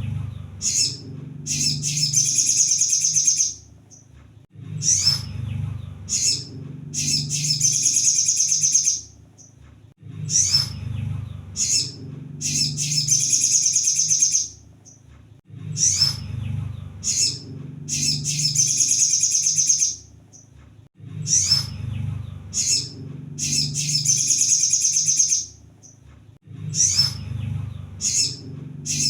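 Sunbird song, kept as a tutor recording for cage birds. The same phrase repeats about every five and a half seconds, five times over: a few short, sharp, high chips, then a fast, dense, high-pitched trill of about a second and a half. A low hum runs beneath the song.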